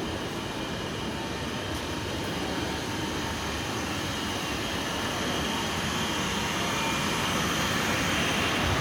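Steady rumbling background noise, slowly growing louder, like traffic or a passing vehicle.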